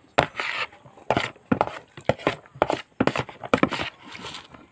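Close-up eating sounds of someone eating fried rice: chewing and mouth noises in irregular bursts, with sharp clicks.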